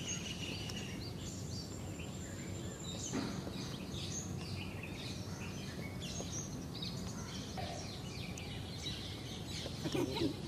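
Small birds chirping and calling, many short high chirps and whistles scattered throughout, over a steady low rumble of outdoor noise.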